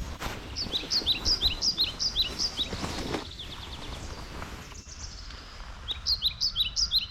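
A songbird singing two runs of quick, repeated downward-slurred chirps, each run lasting about two seconds and the second starting near the end. A brief low rustle comes about three seconds in.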